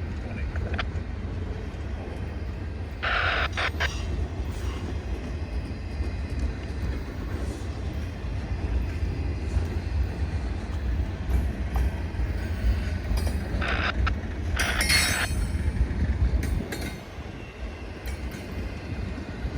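Freight train rolling past, a steady low rumble of cars on the rails, with two short, higher-pitched squeals of the wheels about 3 and 15 seconds in.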